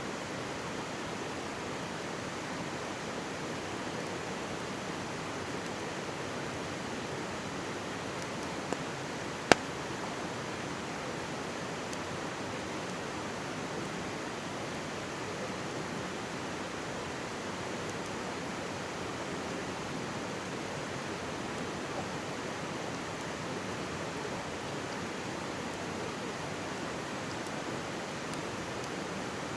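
Steady rush of a mountain stream, with wood in a campfire crackling: one sharp pop about a third of the way in, a smaller one just before it, and a faint one later.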